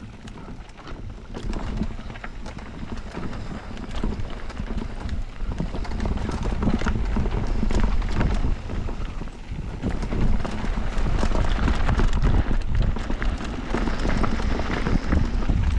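Mountain bike riding down a rough bike-park trail: tyres and frame rattling and clattering over rocky ground in many quick sharp knocks, with a heavy wind rumble on the microphone.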